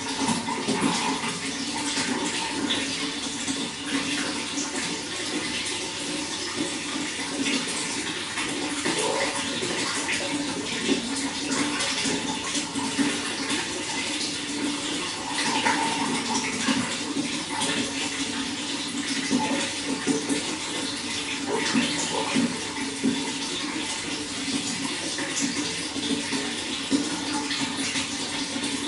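Running water flowing and splashing steadily, a continuous rush with small splashes throughout.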